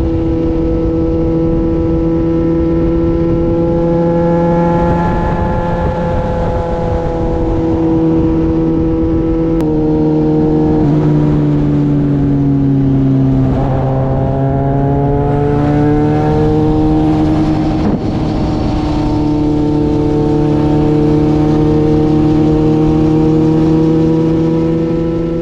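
Motorcycle engine running at highway cruising speed, heard from the rider's own bike over steady wind noise. The engine note sags and then picks up again about halfway through.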